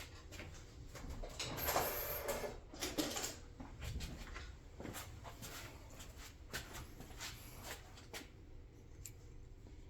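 Faint clicks and scraping of small metal parts being worked with needle-nose pliers, louder for a moment about two seconds in, then scattered light ticks.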